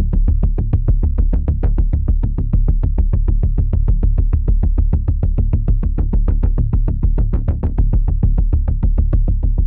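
Electronic music: a synthesizer track with a drum-machine beat, fast even pulses about six a second over a heavy steady bass.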